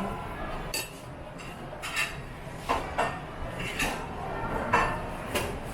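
Cutlery clinking against bowls and plates during a meal: a string of separate short clinks, roughly one every second or less.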